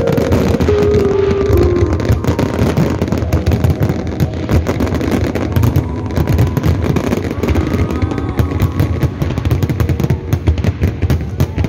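Fireworks going off in a dense, rapid run of pops and crackles over a low rumble.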